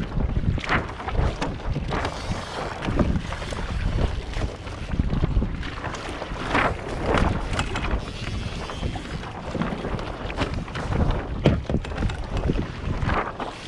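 Wind buffeting the microphone on a kayak out on the water, an uneven gusty rumble with a few brief sharper noises.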